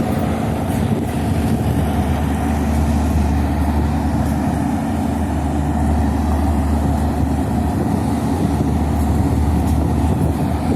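Steady low engine rumble, a deep continuous drone that holds at an even level.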